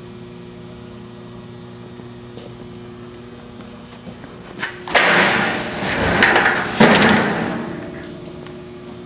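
Cram-A-Lot vertical baler's three-phase electric motor and hydraulic power unit running with a steady hum. About five seconds in, a loud rushing, grinding noise starts as the baler works, surges again a couple of seconds later, then dies back to the hum.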